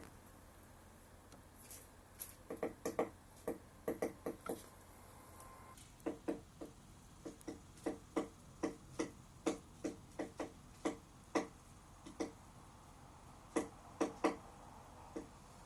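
Woodpecker tapping on wood while foraging for insects: single sharp knocks, irregularly spaced at roughly one to two a second, in short runs broken by brief pauses.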